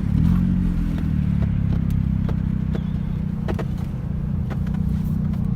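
Car running, heard from inside the cabin as a steady low rumble of engine and road noise, with a few light clicks.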